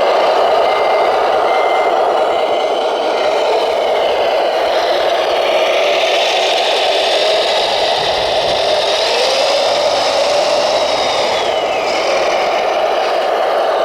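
Radio-controlled scale construction machines at work: a steady drone of small electric motors and gearboxes with whines that rise and fall in pitch, and a truck's reversing beeper sounding in the first few seconds.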